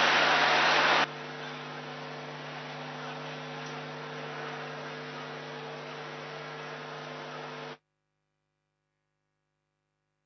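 Steady electrical mains hum with hiss, after a loud rushing noise that stops abruptly about a second in. The sound then cuts out to dead silence for the last few seconds.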